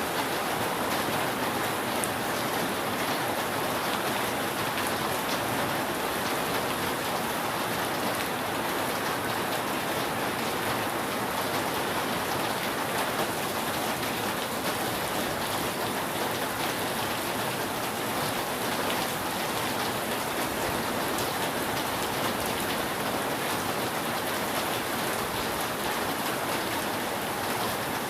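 Steady rain falling on a roof, an even patter with no thunder.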